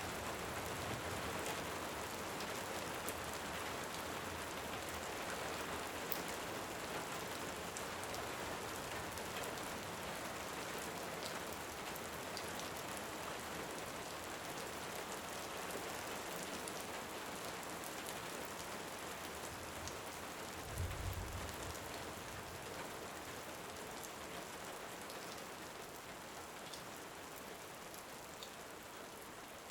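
Steady heavy rain with scattered sharp ticks, and a short low rumble about 21 seconds in; the sound fades slowly toward the end.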